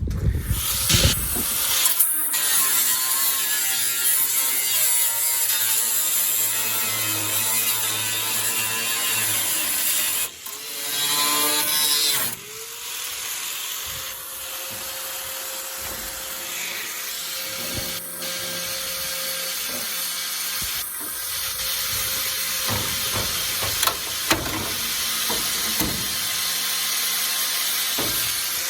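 Hand-held power tool grinding or cutting rusted automotive sheet metal, running continuously. There is a short break with a change in pitch about ten seconds in, and it is a little quieter after.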